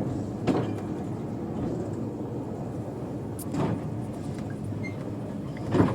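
Heritage diesel train running: a steady low engine rumble, with three sharp knocks about half a second in, near the middle and just before the end, the last the loudest.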